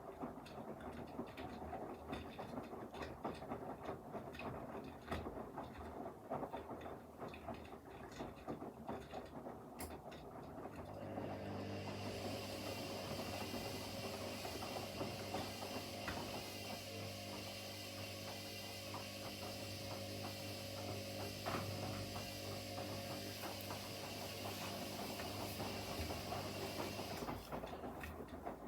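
Front-loading washing machines mid-wash: the drum tumbles with irregular clicks and knocks, then about 11 seconds in a steady hum with a rushing hiss starts, typical of a drain pump or motor running, and cuts off near the end.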